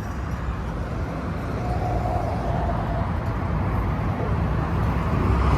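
Steady low rumble of car engines running at a car meet, slowly growing louder.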